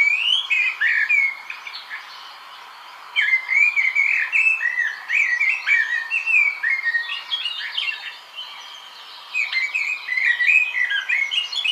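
Small birds chirping and twittering in quick, high, fluttering notes, in three bursts with short pauses between.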